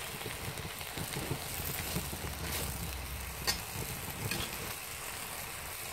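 Lamb and bok choy stir-fry sizzling steadily in a hot wok as it is stirred, with a few clicks of the metal utensil against the pan.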